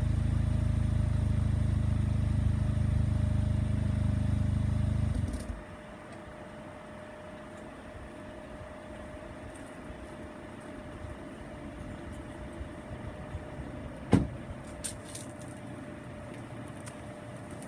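A VW Passat R-Line with an APR downpipe and custom exhaust idles steadily, then the sound stops abruptly about five seconds in. A faint steady hum remains, broken by one sharp click later on.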